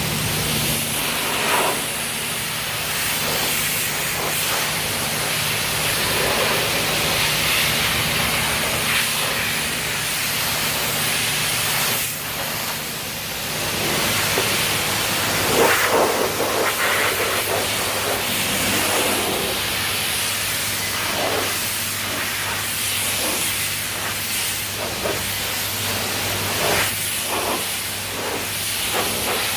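Self-service car wash pressure wand spraying water onto a car, a steady hiss with a low hum underneath.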